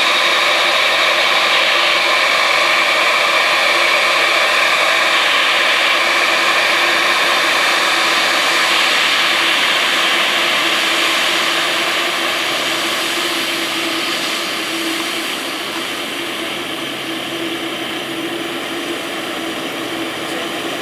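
Jet engines of a Boeing 787-8 running steadily: a loud, even rush with a high whine on top. It fades gradually over the second half, as the aircraft moves away.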